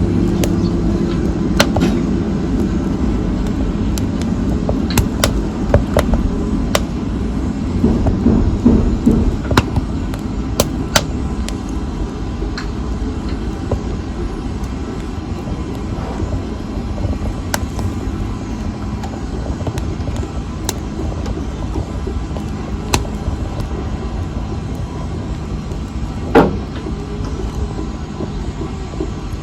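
Wood fire crackling: sharp pops and snaps scattered over the steady low rumble of the flames, with one louder pop about 26 seconds in.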